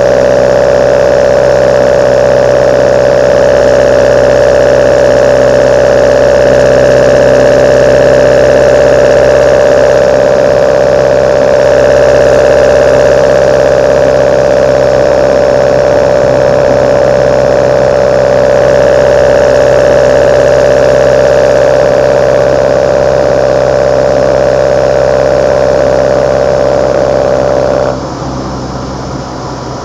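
Kadett GS 16-valve four-cylinder engine breathing through its side-draft Solex C40 ADDHE carburetors, running steadily at an even, unchanging speed with a strong intake hum. Near the end the sound suddenly drops much quieter.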